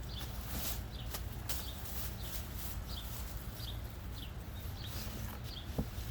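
A small bird chirping over and over, a short high chirp about every half second, over a steady low rumble.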